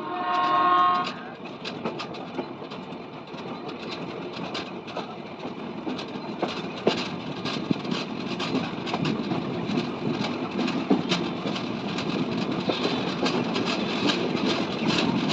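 A passenger train's horn blares once for about a second. Then the wheels clatter over the rails with a rapid clickety-clack and a rolling rumble as the train runs through the curve, growing louder.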